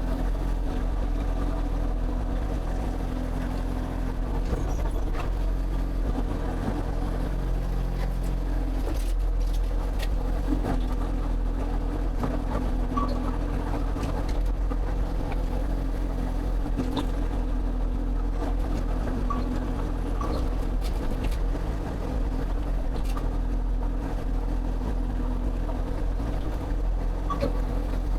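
Excavator's diesel engine running steadily under working load, its pitch shifting briefly about nine seconds in, with a few faint clanks.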